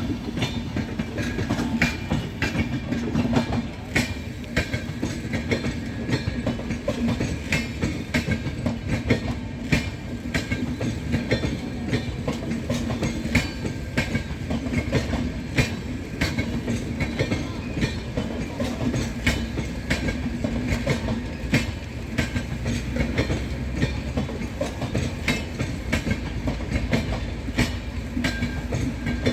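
Rajdhani Express passenger coaches passing at speed: a steady rumble with rapid clickety-clack of wheels over rail joints and points.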